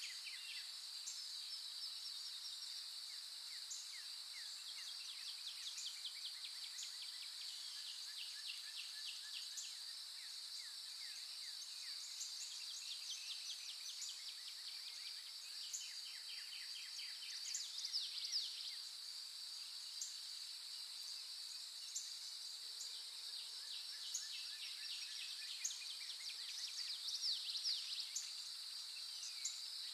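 Outdoor nature ambience: a steady, high-pitched insect drone with many small birds chirping and trilling over it, and a couple of louder bursts of bird calls about halfway through and near the end.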